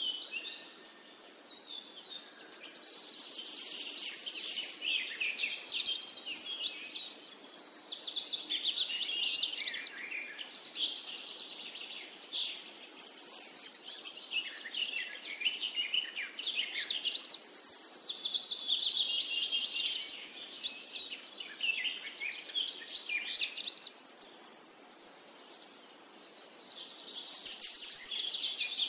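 Songbirds singing in a busy chorus: many quick, high chirps and trills overlapping, growing louder and softer every few seconds.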